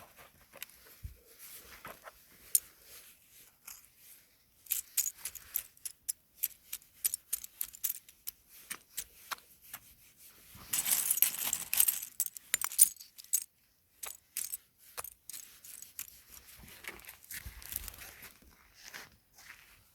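Close-miked ASMR trigger sounds: small hard objects handled, giving a scatter of sharp clicks and light taps, with a denser metallic-sounding rattle for a couple of seconds about halfway through.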